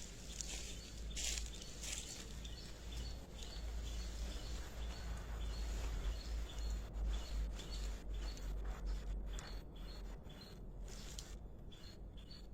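Small bird's short, high chirps, repeated steadily about twice a second, over a low rumble and scattered clicks.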